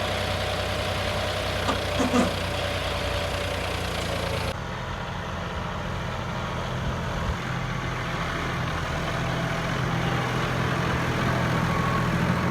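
John Deere 5210 tractor's diesel engine running steadily, with a couple of brief knocks about two seconds in. The sound changes abruptly about four and a half seconds in and turns duller, then runs on steadily.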